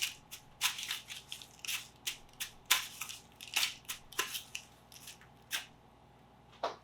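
Hands pressing cube steaks into dry panko breadcrumbs in a dish: a string of short, crisp crunching scrapes, about one or two a second.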